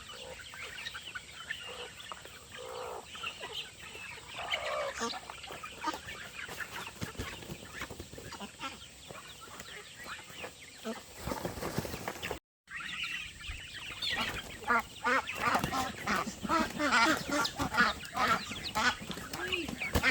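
Farm poultry calling: many short clucks and peeps, sparse at first, then a denser, louder chorus of calls after a brief break about twelve seconds in.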